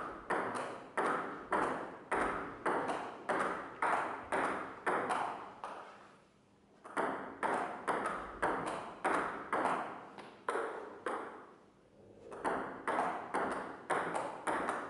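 Table tennis rally: the ball clicking off paddles and table in quick alternation, about three hits a second. The hitting stops briefly twice, about six and twelve seconds in, then starts again.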